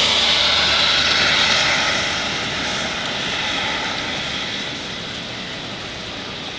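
Hurricane wind gusting as a loud, even rush that eases off about two seconds in and then fades slowly to a steadier, lower rush.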